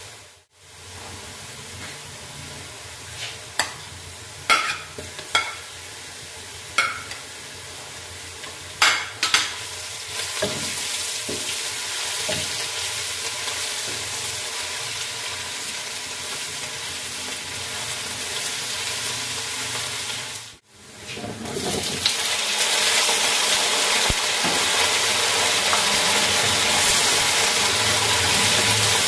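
Sliced onions sizzling in hot oil in a nonstick wok, with several sharp knocks of a slotted spatula against the pan in the first nine or so seconds as they are stirred. After a short break about two-thirds of the way through, a louder, brighter sizzle as cubed potatoes fry in the oil.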